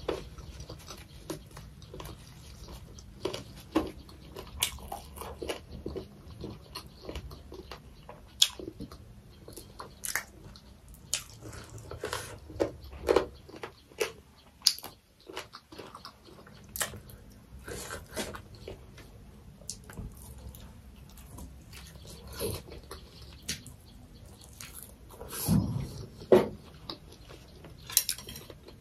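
Close-miked chewing while eating fried chicken feet: many irregular wet smacks and clicks of the mouth.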